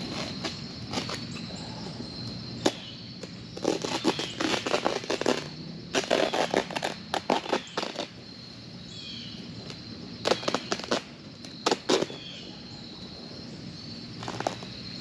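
Synthetic landscape fabric crinkling and rustling in several irregular bursts as it is cut and handled.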